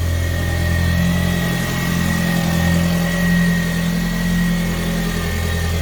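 Turbocharged 1.8-litre four-cylinder engine of a Mk1 vRS idling steadily through a freshly fabricated custom exhaust, with a thin steady high whine over the engine note.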